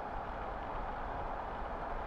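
Steady rush of wind and road noise from a Honda Africa Twin motorcycle on the move, with a low engine rumble underneath.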